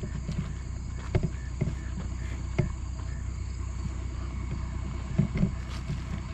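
Insects, likely crickets, chirping steadily over a low steady hum, with a few faint knocks.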